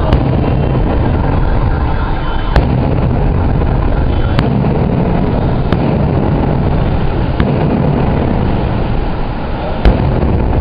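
Fireworks exploding: sharp bangs every second or two, six in all, over a continuous loud rumble of bursts, as picked up on a phone-grade recording.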